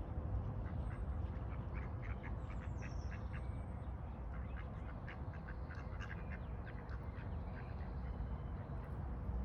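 Ducks quacking in a run of short, repeated calls that thin out near the end, over a steady low rumble.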